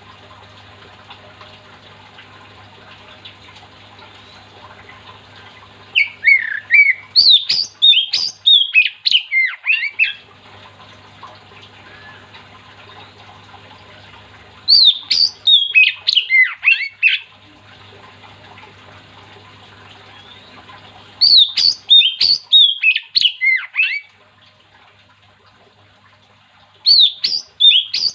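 Oriental magpie-robin (kacer) singing in four loud bursts of rapid, varied whistled phrases, each two to four seconds long. A low steady hum runs between the bursts.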